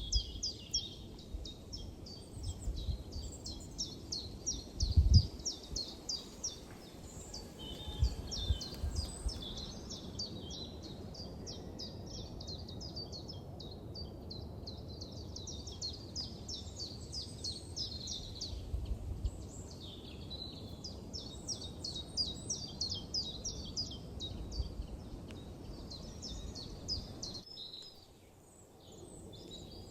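Forest birds singing: dense, rapidly repeated high chirps and trills almost without pause, over a low outdoor rumble with a few brief low thumps. The sound drops off briefly near the end.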